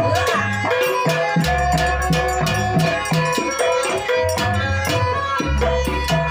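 Traditional Banyuwangi dance music for a Gandrung performance: drums and rapid, regular percussion strikes under sustained melodic tones.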